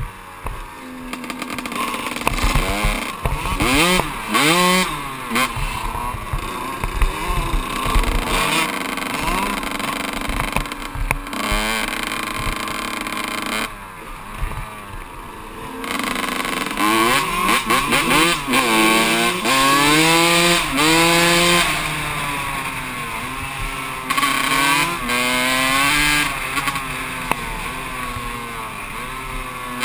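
Kawasaki KX125 two-stroke motocross engine revving hard and falling back again and again through the gears, off and on the throttle. It eases off to a lower, quieter note about halfway through, then picks up and revs again.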